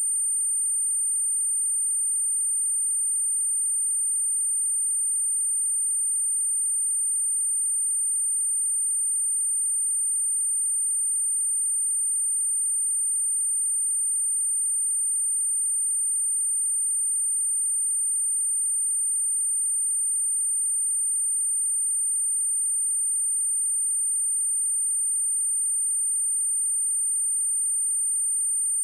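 A pure sine-wave test tone at 8976 Hz, one steady high-pitched whistle held at a constant level, used as a speaker test and speaker-cleaning tone.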